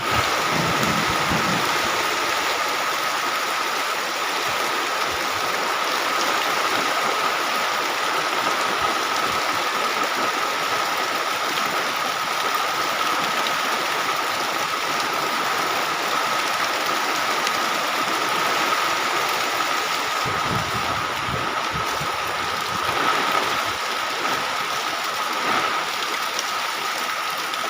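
Heavy rain pouring down in a steady, dense hiss, with low rumbles of strong wind gusts, the biggest about twenty seconds in.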